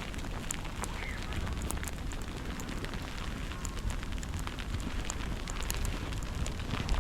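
Snowstorm street ambience: a steady low rumble of wind with many irregular crackling ticks throughout, like snow or ice grains striking close by.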